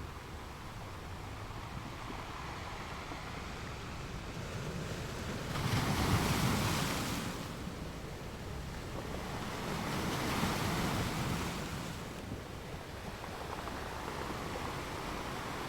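Sea surf: a steady wash of water with two waves swelling and breaking, the first and louder about six seconds in, the second about ten seconds in.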